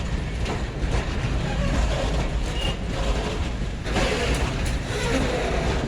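PKP Cargo freight train rolling slowly along the siding, a steady rumble with scattered clicks of wheels over the rails.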